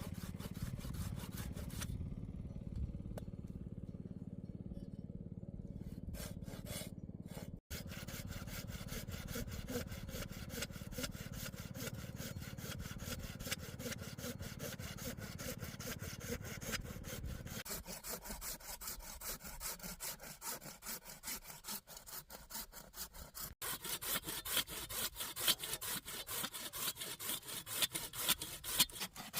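A hand saw cutting wood with rapid, even back-and-forth strokes. The strokes turn sharper and brighter in the last few seconds.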